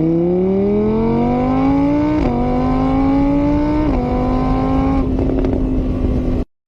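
Car engine accelerating through the gears: its pitch climbs, drops sharply at each shift about two and four seconds in, then holds steady before cutting off abruptly near the end.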